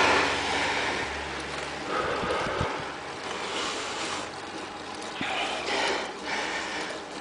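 Wind rushing over the microphone of a moving bicycle, a fluctuating rush of noise that swells and fades.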